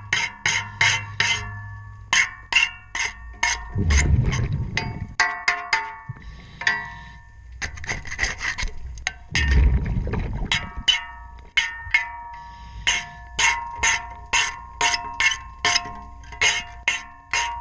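Rapid, rhythmic scraping strokes on a boat propeller underwater, about three to four a second; the metal blade rings with steady bell-like tones between strokes. Low rumbling bursts of a diver's exhaled regulator bubbles come three times, about six seconds apart.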